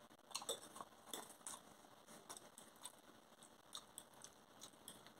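Faint eating sounds: a person chewing sausage and mashed potato, with small scattered mouth clicks and smacks, about two a second.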